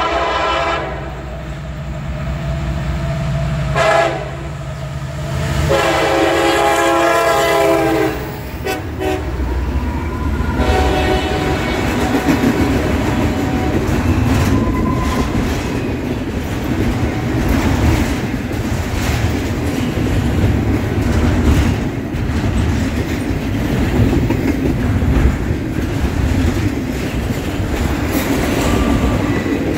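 Norfolk Southern freight locomotives, led by an EMD SD70ACC, sounding the horn in several blasts over the first ten seconds, the longest a few seconds before the engines pass. After that, double-stack intermodal cars roll by with a steady rumble and wheels clicking over the rail joints.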